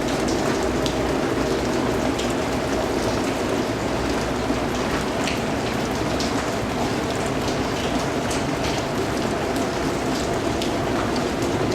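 Steady rain falling, with a dense even hiss and individual drops spattering on a surface.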